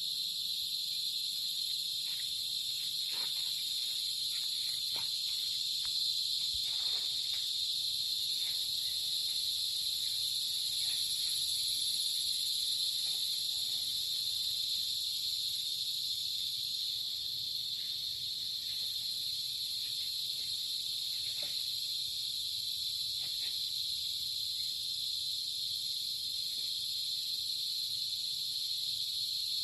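A dense chorus of crickets trilling steadily, a high-pitched drone that never lets up, with a few faint ticks here and there.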